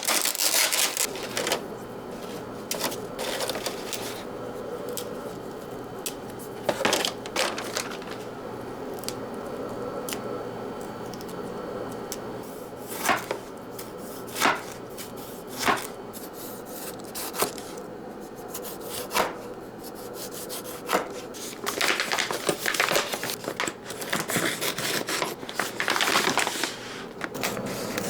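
Kitchen work sounds: a series of knocks and taps from utensils and food being handled, single ones a second or two apart with busier clusters near the start and end, over a steady low hum.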